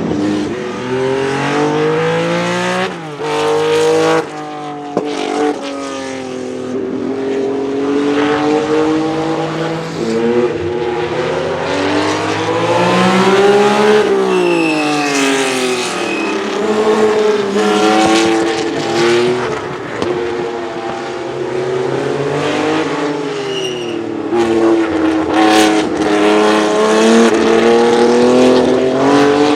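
Race-tuned 2-litre flat-six of a 1967 Porsche 910 at high revs on track, climbing in pitch and dropping back again and again as it accelerates and shifts. About midway the pitch sweeps steeply down as the car passes by.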